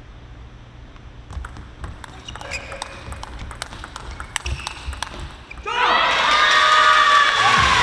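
A table tennis ball clicking sharply off bats and table at irregular intervals during a rally. Then, almost six seconds in, a hall crowd breaks suddenly into loud cheering and shouting, the sign that the point has been won.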